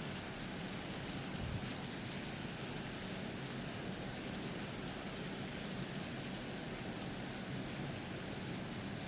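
Steady rain falling during a storm, with one brief low thump about a second and a half in.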